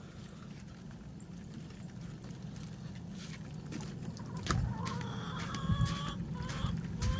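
Domestic chickens clucking, the calls starting about halfway through, over a steady low background noise.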